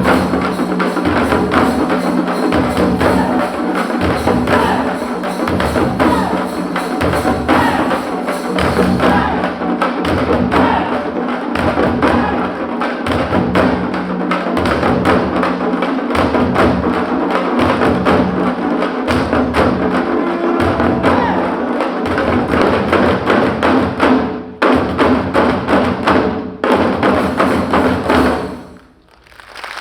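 Parai frame drums played fast with sticks by an ensemble in a steady driving rhythm. Two short breaks come near the end before the drumming stops abruptly, and applause begins.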